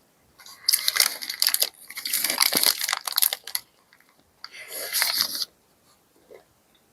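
Fast-food paper packaging being handled and crinkled in three bursts of crackling.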